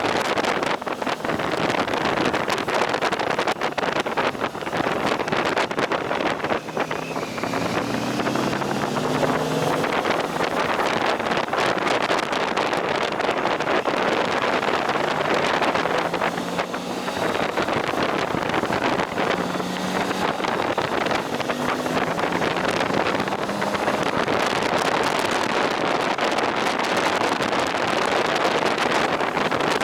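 Motorcycle engine running on the move under heavy wind noise on the microphone. Its note climbs in pitch a few times as it accelerates.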